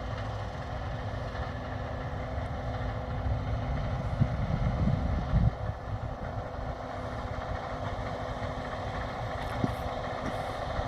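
Case IH 7150 combine harvester running steadily while harvesting wheat: an even machine drone with a steady whine in it. It swells into a louder rumble for about a second and a half just before the middle.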